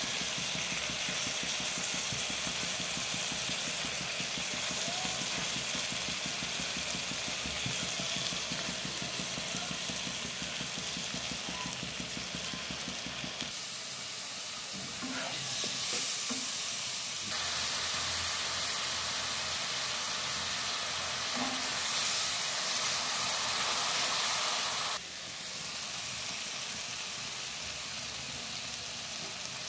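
Sliced onions and spice paste sizzling as they fry in oil in a wok, stirred with a metal spatula. The frying hiss is steady but changes level abruptly a few times.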